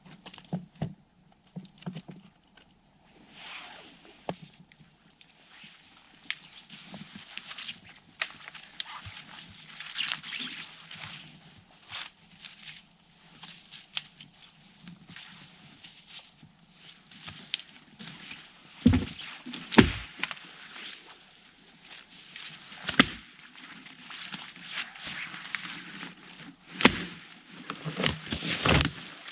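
Footsteps crunching in snow, with rustling and scattered clicks and knocks. A few heavier thumps come in the second half.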